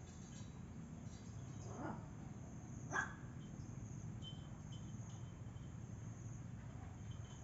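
A dog barking twice, a faint short call about two seconds in and a sharper, louder bark a second later, over a steady background of chirping insects.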